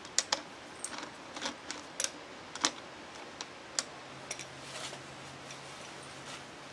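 Scattered light clicks and taps of small metal parts and hand tools being handled during a motor teardown, irregular and a second or so apart. A faint steady hum comes in about four seconds in.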